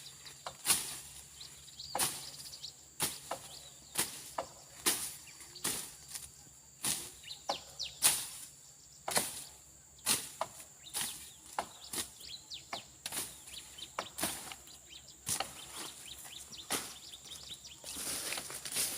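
Hand blade slashing through brush and weeds, sharp strikes at about one a second. A steady high insect drone and faint bird chirps run underneath.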